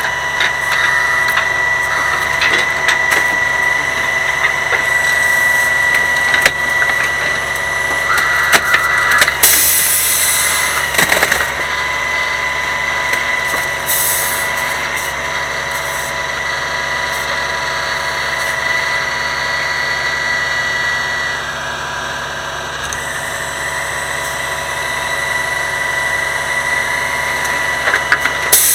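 Grapple garbage truck running steadily with a constant high whine. Scattered knocks and clacks come through it, with short bursts of hissing about ten seconds in and again near the end.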